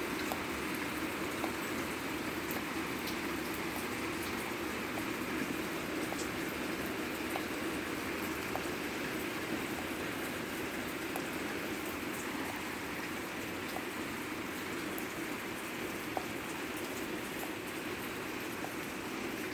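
Heavy rain falling steadily, a dense even hiss of downpour with scattered faint drip ticks.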